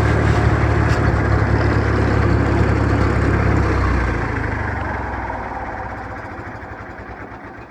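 Farmall M tractor's four-cylinder engine running steadily at road speed, loud for the first few seconds and then fading away gradually.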